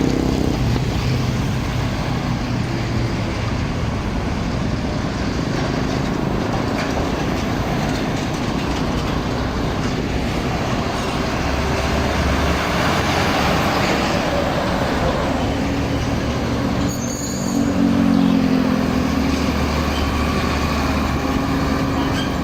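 Heavy trucks passing on a road: continuous engine running and tyre and body rumble. A louder truck engine comes through about three-quarters of the way in.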